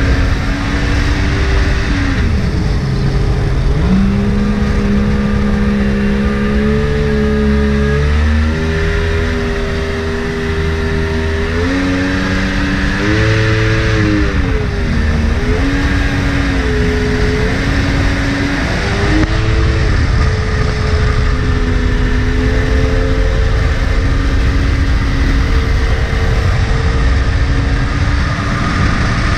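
Mini jet boat's Yamaha 1100 WaveRunner engine running under way, its pitch dropping and climbing again and again as the throttle is worked, then holding fairly steady in the last third, over a steady low rumble.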